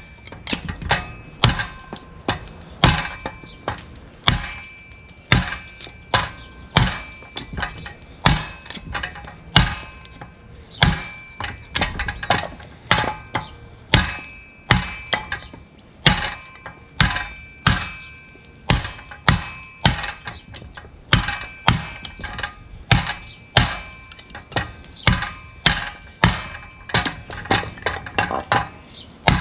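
Bowie knife with a 52100 steel edge chopping into a 2x4, a steady run of hard blows about one to two a second. Some blows leave a short metallic ring from the blade.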